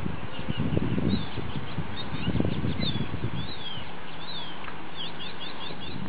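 Small birds chirping: quick, high, repeated chirps in short runs, thickest near the middle and again near the end, over a steady low rumbling noise.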